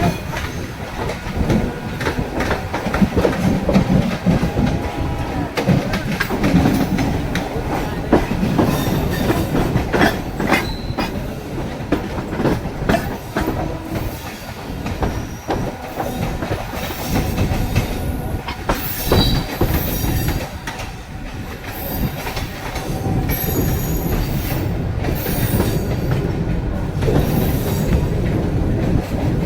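Mumbai suburban local electric train running on the tracks: a steady rumble with rapid clatter of wheels over rail joints, and short high wheel squeals here and there.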